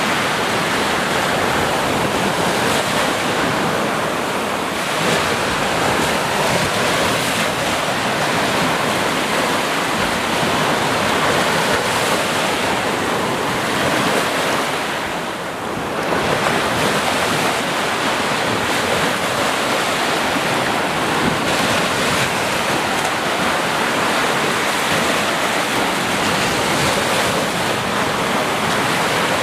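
Sea surf: waves breaking in a continuous wash of noise, with a brief lull about halfway through before the next wave surges in.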